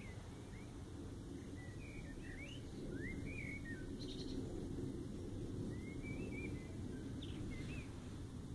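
Small songbirds chirping and twittering in short, scattered calls over a steady low rumble.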